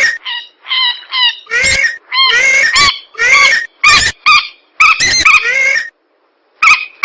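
Bird-lure recording of swamp rail (mandar) calls: a rapid series of short, harsh calls, about two a second, with a brief pause near the end.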